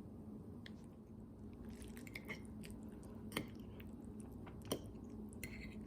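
Faint scattered clicks and small crackles, two of them sharper about three and a half and almost five seconds in, over a low steady hum.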